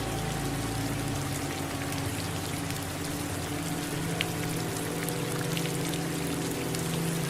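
Steady rain falling, an even hiss with scattered single drops ticking out, over a low steady hum.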